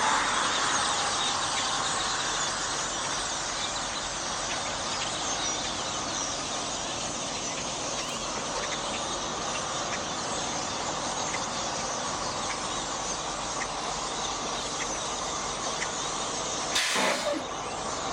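A large flock of birds calling all at once: a dense, continuous chatter of many overlapping chirps and squeaks. A short, loud noise cuts across it about a second before the end.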